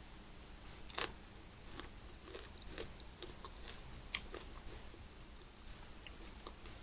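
A person chewing and biting into a lobster roll, with a sharp crunchy bite about a second in, another about four seconds in, and small wet mouth clicks between.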